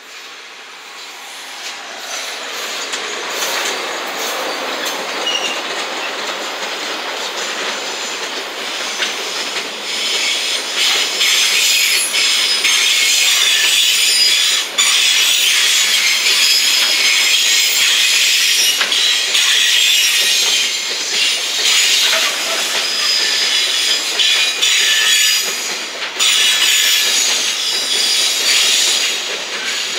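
Freight train passing close: an EF210 electric locomotive and then a long string of container wagons, the rolling noise growing over the first few seconds and staying loud once the wagons are going by. High wheel squeal rings over the clatter of the wheels.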